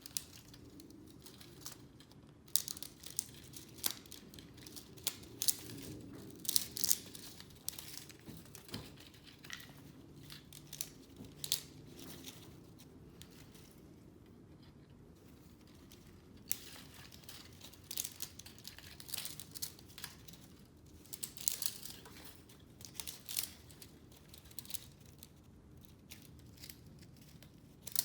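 Scrap from a vacuum cleaner being taken apart by hand: scattered crinkling, tearing and sharp snips and clicks as parts and copper wire are pulled, cut and handled.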